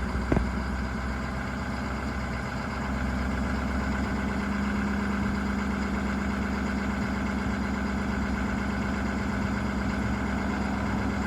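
Ford F-350's 6.7-litre Power Stroke turbo-diesel V8 idling steadily.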